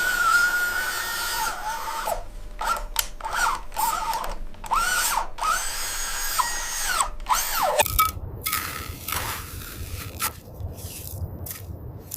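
Small electric motor of a radio-controlled construction model whining, its pitch rising and falling in repeated arcs as it speeds up and slows down. About eight seconds in, the whine gives way to a lower rumble with scattered clicks.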